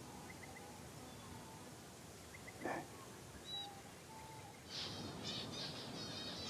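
Faint outdoor ambience with small bird chirps; one short, louder call a little before halfway, then a bird starts a quick run of repeated high chirps about three-quarters of the way through.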